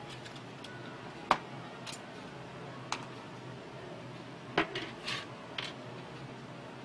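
A few sharp clicks and clinks of small hard parts being handled, the loudest about a second in and a quick cluster around two-thirds of the way through, over a steady low hum.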